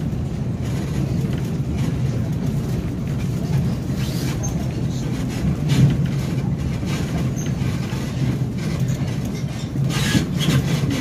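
Passenger train coach rolling along the track, a steady low rumble of wheels on rails, with a few sharp clicks near the end.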